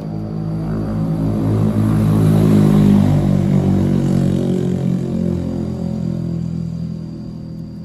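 A motor vehicle's engine passing by, growing louder to a peak about three seconds in, then fading away.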